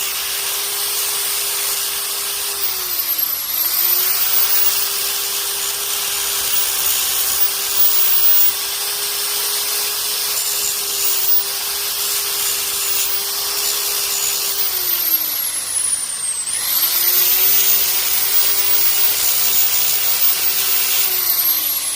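Handheld electric power sander running against a tree branch, with its motor hum over a coarse grinding hiss. The motor's pitch sags about three seconds in, drops sharply and spins back up around sixteen seconds in, then winds down at the end.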